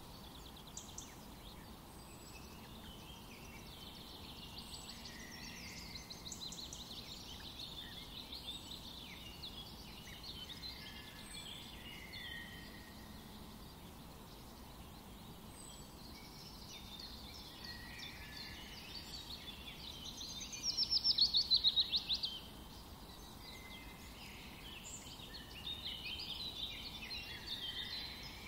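Birds chirping and singing outdoors, many short calls and warbled phrases overlapping, with one loud, fast trill about two-thirds of the way through.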